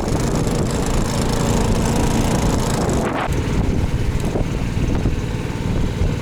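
Small motorboat's engine running steadily with a droning, mower-like sound; the noise eases off a little about three seconds in.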